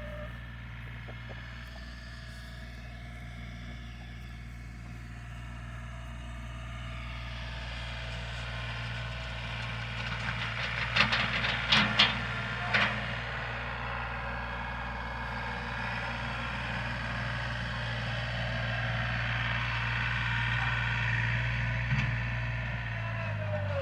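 A vehicle engine running steadily, with a clatter of sharp knocks about eleven to thirteen seconds in.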